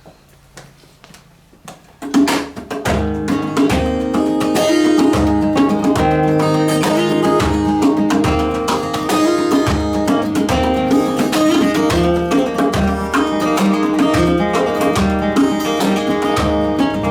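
Band's instrumental intro led by guitar, with a steady low beat underneath. It comes in about two seconds in, after a short quieter stretch.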